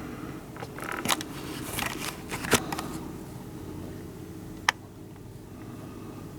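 A few sharp clicks and knocks over a low steady background, the sharpest about three-quarters of the way through, like something being handled.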